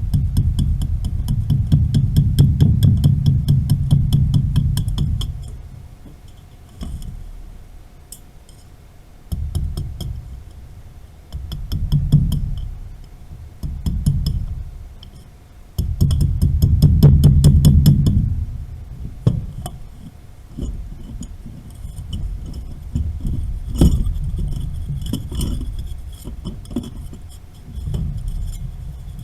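Metal tools and pipe fittings clinking and knocking, with rapid clicking and two stretches of heavy low rumble, one at the start and one about two-thirds of the way through.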